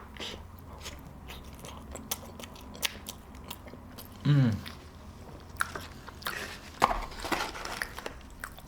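A person chewing a mouthful of food close to the microphone, with wet clicks and crunching, busier in the second half. About four seconds in there is a short hum that falls in pitch.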